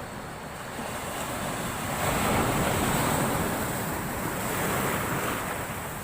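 Large storm waves surging and breaking on the shore, swelling loudest about two seconds in and surging again near the end, with wind buffeting the microphone.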